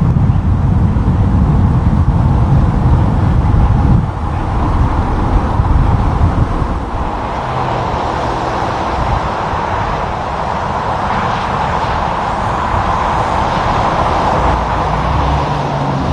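Highway traffic with heavy trucks passing: a loud low rumble for about the first four seconds, then it eases to steadier road and tyre noise.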